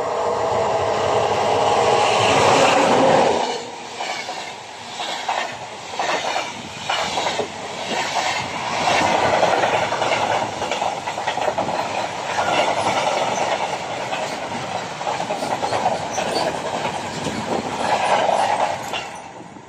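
Serbian Railways class 461 Co'Co' electric locomotive passing at close range, loud with a steady humming tone for about the first three seconds. It is followed by a long line of covered freight wagons rumbling past, their wheels clicking rhythmically on the rails. The sound falls away sharply as the last wagon passes near the end.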